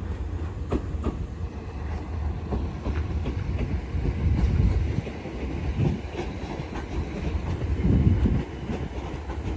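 Southeastern electric multiple-unit train pulling out of the station, with a low rumble and wheels clacking over the rail joints. The rumble swells twice, about halfway through and near the end.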